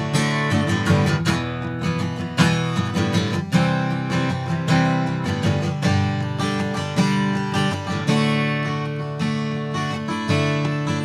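Martin D-18 acoustic guitar strummed in a steady rhythm, chords ringing between the strokes, with no singing.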